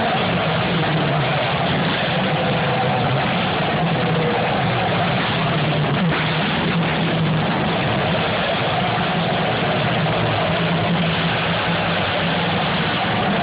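IndyCar race car engines running, heard as a steady, unbroken drone without distinct pass-bys.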